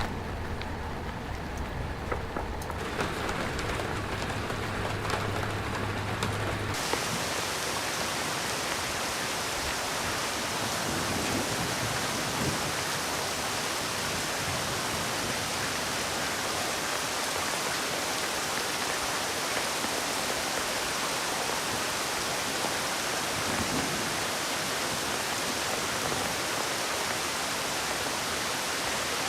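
Steady rain falling, an even hiss. About seven seconds in it becomes fuller and brighter, and a low hum under it stops.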